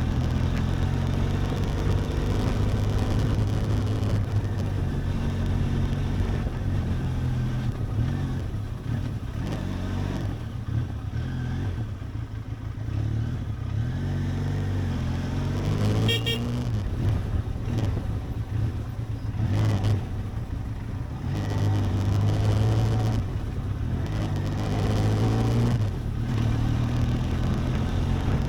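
Benelli TRK 502X motorcycle's parallel-twin engine running as it is ridden, its pitch rising and falling with the throttle.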